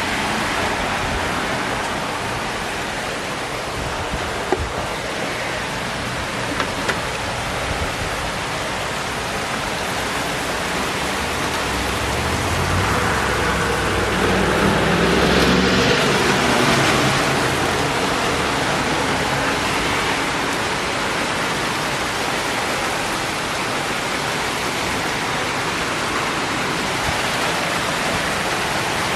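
Steady rain falling, an even rushing hiss. About halfway through a louder rush with a low rumble swells up and fades away over several seconds, and there are a couple of faint clicks early on.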